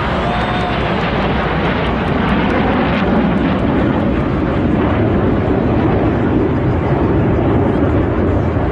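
Airplane flying overhead, its engine noise a loud, dense rush that builds over the first couple of seconds and then holds steady.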